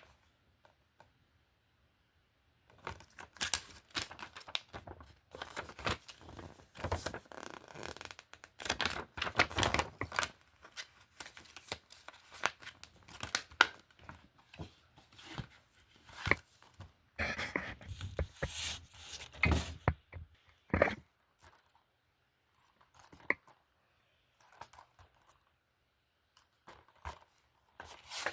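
Film and TV disc cases being handled: irregular rustling, crinkling and plastic clacking, busy for most of the stretch, then thinning to a few scattered clicks near the end.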